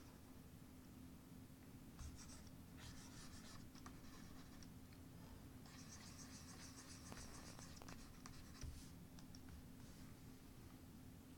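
Faint scratching of drawing strokes on a drawing surface, coming in short bursts of about a second, with a longer run of strokes from about six to eight and a half seconds in, over a low steady hum.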